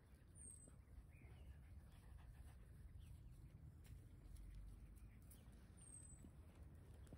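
Faint birdsong: a thin, high, falling whistle twice, about five and a half seconds apart, with a few softer chirps between, over a low steady rumble.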